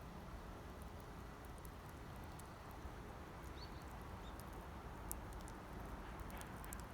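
Wood campfire crackling: scattered small, sharp pops and snaps over a faint steady background, coming more often towards the end.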